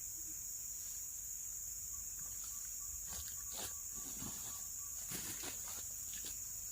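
Steady high-pitched drone of forest insects such as crickets or cicadas, with a few light knocks and rustles from about three seconds in.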